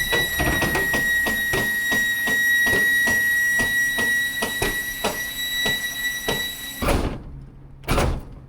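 Enclosed car hauler's hydraulic lift deck lowering: a steady high whine with rapid, even clicking, about three clicks a second. The whine stops about seven seconds in, followed by a few heavy clunks as the deck comes to rest.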